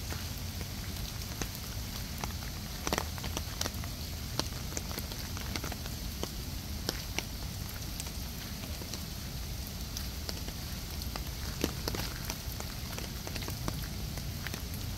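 Water from the play area's sprays and fountains falling and splashing steadily onto a surface, a rain-like patter with scattered sharper drips and splashes.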